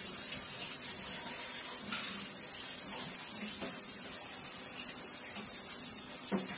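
Ground beef, onions, bell peppers and freshly added garlic sizzling steadily in a hot pan, with a couple of faint knocks near the end.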